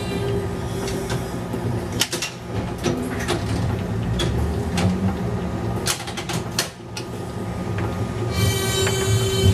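Replica 1920s-style electric streetcar running on its rails with a steady rumble. A whine fades out at the start and comes back near the end, and there are sharp clicks and knocks about two seconds in and again around six seconds.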